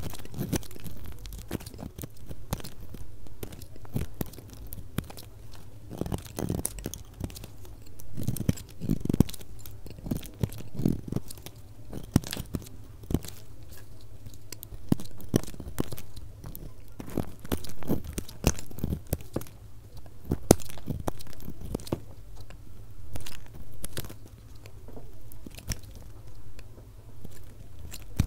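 Bar soap being cut, a dense run of crisp crunching and crackling clicks, sped up to double speed, over a steady low hum.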